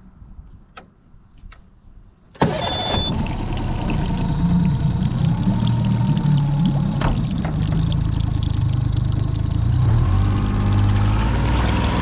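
Mercury four-stroke 30 hp outboard motor starting: two sharp clicks, then the engine catches about two seconds in and runs steadily at idle, rising a little near the end.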